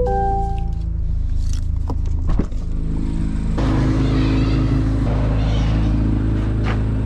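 Corvette Z06's V8 idling steadily, with a chime fading away right at the start and a knock a couple of seconds in. About halfway through, a motorized overhead garage door starts running with a steady hum and rattle.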